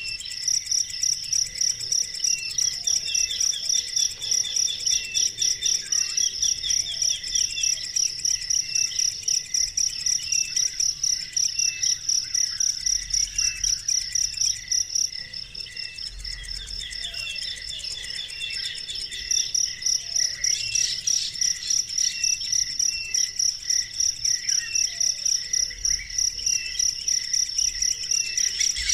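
An insect chirps in a fast, even pulsing rhythm on one high steady pitch. It stops for a few seconds about halfway through, then resumes. Short bird chirps and a few brief trills sound over it.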